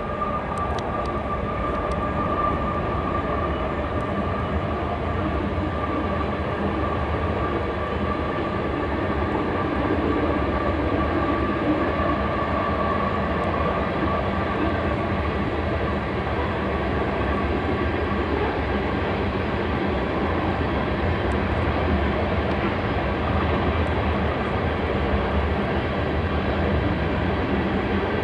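Union Pacific coal train approaching: a steady rumble of locomotives and rail noise that grows gradually louder, with a faint steady tone in the first half.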